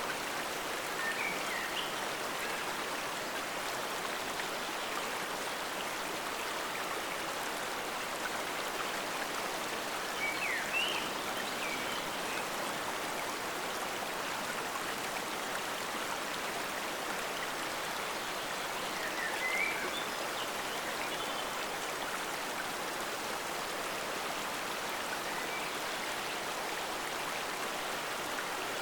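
Forest stream flowing in a steady, even rush of water. A few short, high chirps come through it three times.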